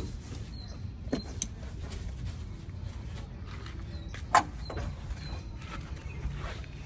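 A few sharp knocks and clicks, the loudest about four seconds in, over a steady low rumble, with a few faint short high chirps.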